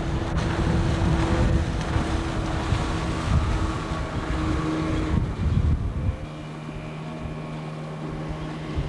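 Motorboat engine running steadily, with wind buffeting the microphone. About six seconds in, the buffeting drops away and leaves the engine's steady hum.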